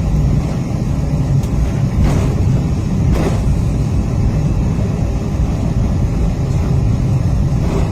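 Cabin noise of an Airbus A320-232 taxiing: a steady low rumble from its IAE V2500 engines at taxi power and its wheels rolling on the taxiway, with two light bumps about two and three seconds in.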